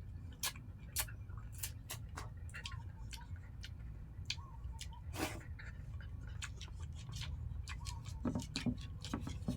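Irregular clicks and smacks of a person eating, over a steady low rumble.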